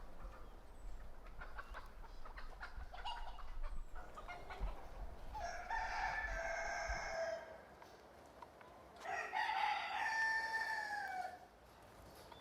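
A rooster crowing twice, each crow lasting about two seconds, the second dropping in pitch at its end. Softer clucking comes before the first crow.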